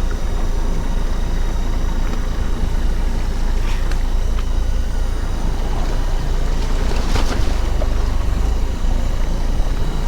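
A fishing boat's engine running steadily: a continuous low rumble, with a few brief clicks or knocks about four seconds in and again about seven seconds in.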